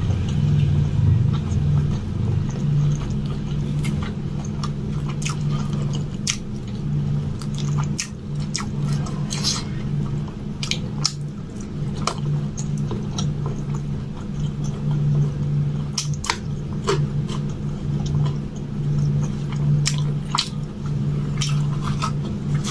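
Close-miked chewing and mouth sounds of someone eating puri dipped in palak paneer, with many short wet clicks and smacks scattered throughout. A steady low hum runs underneath.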